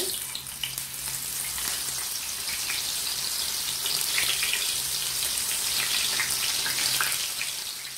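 Eggplant slices sizzling steadily as they are laid one by one into hot sunflower oil in a non-stick frying pan, fading a little near the end.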